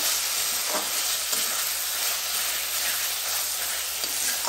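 Chopped vegetables frying in oil and sauce in a metal kadai, a steady sizzling hiss, while a spatula stirs them with a few light scrapes against the pan.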